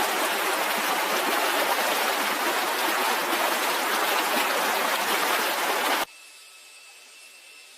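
Steady rushing noise of water, like heavy rain or a fast stream, that cuts off suddenly about six seconds in, leaving only a faint hiss.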